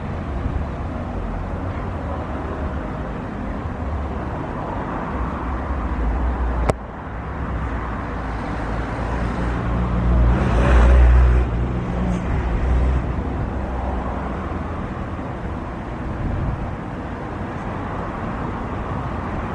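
Steady outdoor rumble of vehicle engine noise with wind. It cuts off abruptly about seven seconds in, then a louder swell passes around ten to twelve seconds in and fades.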